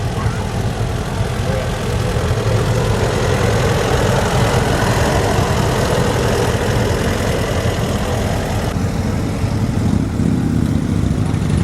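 Motor vehicle engine idling, a steady low run, its pitch rising near the end.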